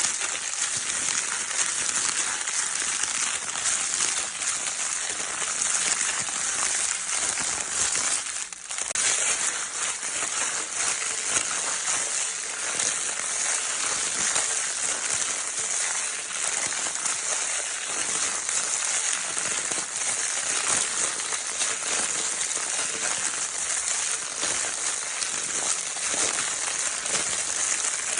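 Crinkle-paper baby toy being crinkled continuously, a dense, steady crackle used as white noise to soothe a crying baby, with a brief lull about eight seconds in.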